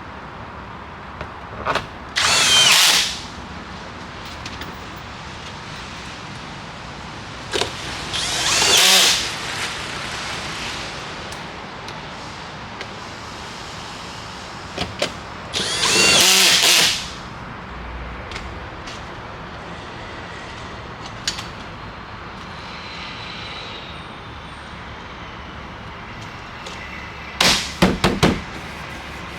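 Power drill running in three short bursts of about a second each, its motor pitch sweeping as it spins up. Near the end there is a quick cluster of sharp clicks.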